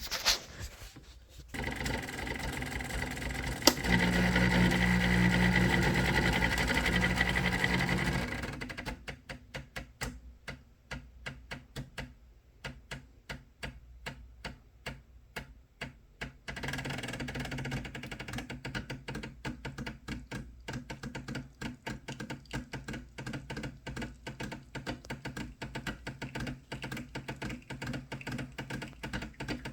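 Decent espresso machine's pump running through a shot: a steady hum that grows louder for a few seconds, then about eight seconds in it changes to a fast, even ticking pulse, which gets louder again past the halfway point.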